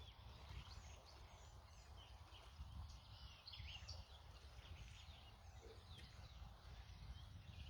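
Quiet outdoor background: a low wind rumble on the microphone, with a few faint bird chirps about three to four seconds in.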